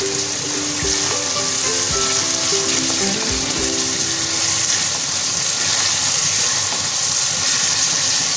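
Chopped onion, green chilli, garlic and ginger sizzling in hot oil in a metal kadhai, with a steady hiss. A wooden spatula stirring them gives a few soft knocks against the pan in the first half.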